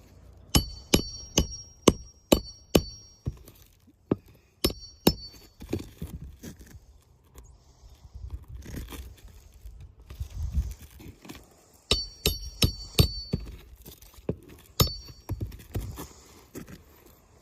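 A metal tool working on asphalt shingles: sharp metallic taps and clicks with a brief high ringing, in quick clusters of several strokes with pauses between, along with some scraping.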